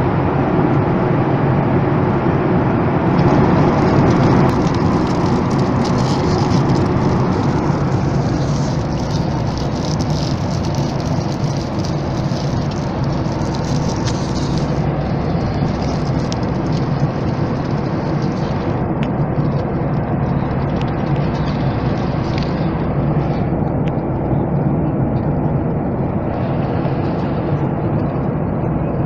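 Steady roar of engine and airflow noise inside the cabin of a Boeing 737 MAX 8, whose engines are CFM LEAP-1B turbofans. A brighter hiss rides on top for the first half and eases off after about fifteen seconds.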